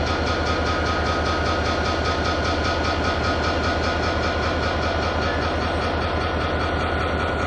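Amtrak passenger train rolling on the rails, heard from on board: a steady running noise with a fast, even beat and a steady high whine.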